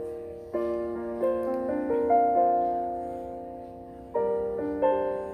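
Keyboard piano playing slow, sustained chords, each struck and left to fade, with a new chord about every second or two.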